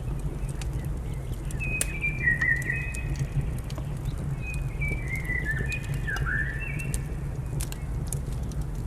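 Wood fire crackling, with scattered sharp pops over a steady low rumble. A bird whistles short, partly falling notes in two runs through it.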